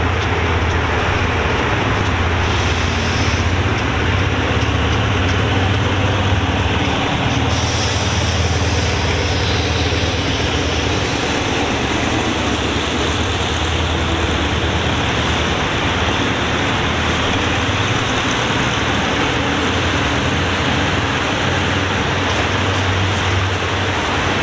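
Train running on the line: a steady, loud rumble with a low drone underneath.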